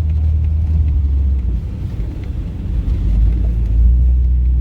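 Lifted 1998 Jeep Cherokee's engine and drivetrain droning steadily as it drives slowly through snow. The low drone eases off around the middle and swells again near the end.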